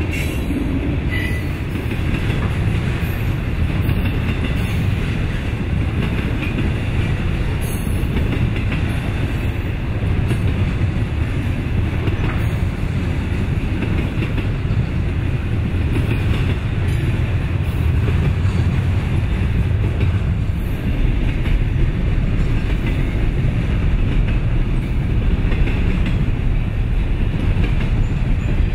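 Freight train passing at speed: a steady rumble of steel wheels on rails as the cars go by, with double-stack container cars among them.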